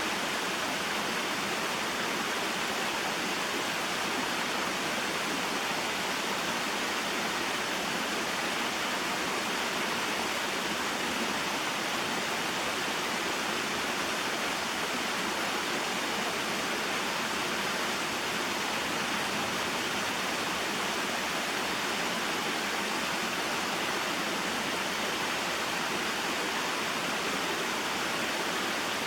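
Small mountain waterfall and stream running over rocks: a steady, even rush of water with no change.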